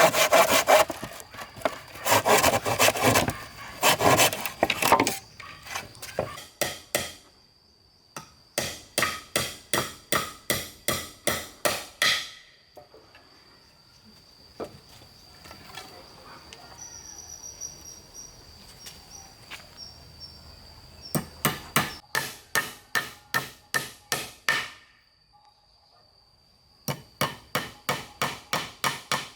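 Saw cutting through wood for the first few seconds, then a hammer striking wood in quick runs of about three blows a second, with pauses between the runs. A steady high insect drone runs underneath.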